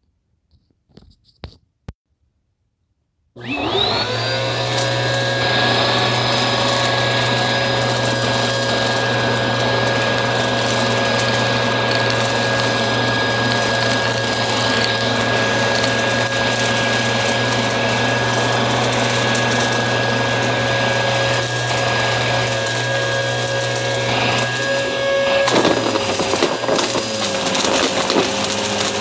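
Upright vacuum cleaner switched on after a few faint clicks. Its motor spins up to a steady whine and runs. About 25 seconds in, the tone shifts and a rougher, crunchy crackling of picked-up debris comes in.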